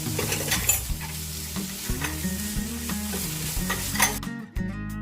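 Food sizzling in a hot pan while being stirred, with a utensil clicking and scraping against the pan now and then.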